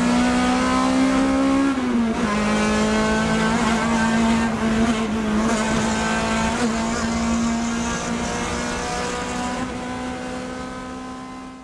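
Car engine heard from inside the cabin while driving, its pitch rising slowly, dropping about two seconds in, then holding steady before fading out near the end.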